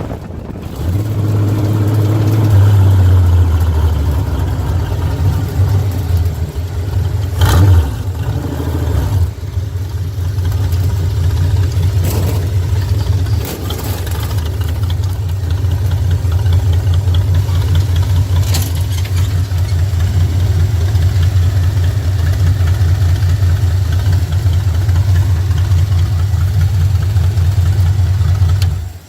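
4.3-litre Vortec V6 of a sand rail idling: it settles down from a faster idle in the first few seconds, then runs at a steady, even idle with a few sharp clicks, and the sound cuts off suddenly near the end.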